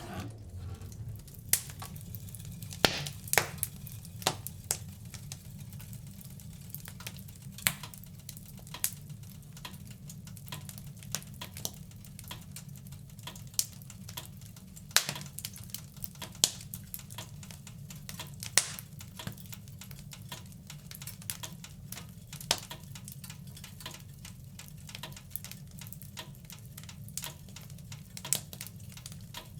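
Wood fire in a fireplace crackling, with irregular sharp snaps and a few louder pops over a steady low rumble of the flames.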